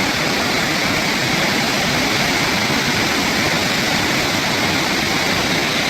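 Steady roar of a large waterfall, water rushing and crashing without a break.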